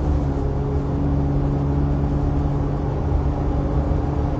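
Car cabin noise while driving: a steady low engine and road rumble with a steady hum that dips slightly in pitch near the end.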